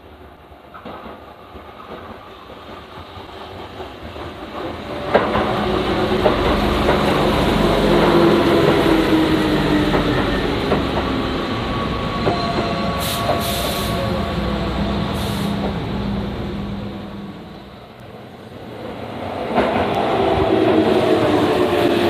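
Keihan Main Line electric train passing at a level crossing, building up over the first few seconds and staying loud for about ten seconds. It fades briefly, then gets louder again near the end as another train comes through.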